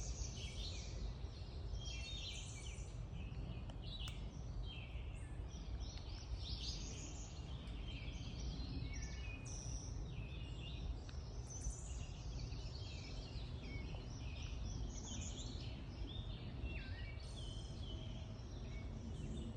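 Several songbirds singing and chirping at once in a spring morning chorus: many short, overlapping calls and trills, over a steady low rumble.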